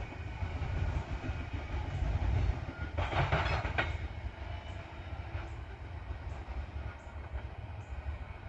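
Loaded coal train rolling slowly past, its railcars' steel wheels making a steady low rumble with faint regular clicks. A louder, rasping burst comes about three seconds in and lasts under a second.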